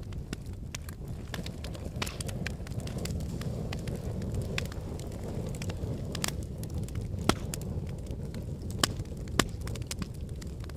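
Wood fire burning in a fireplace: a steady low rumble of flames with scattered crackles and pops, two sharper snaps near the end.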